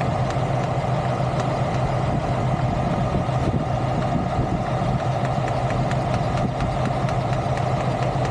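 A large engine idling steadily, a constant even hum with faint scattered ticks.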